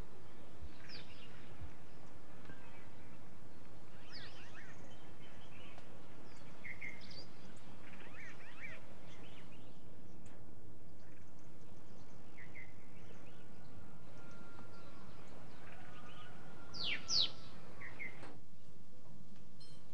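Small birds chirping in short, scattered calls over a steady outdoor background hiss. The loudest calls come near the end, just before the ambience drops away suddenly.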